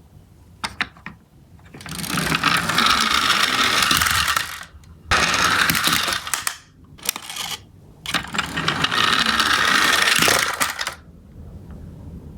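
Miniature toy garbage trucks rolling down a slope, their wheels rattling on the track in three runs of about two to three seconds each, with a few sharp clicks between the runs.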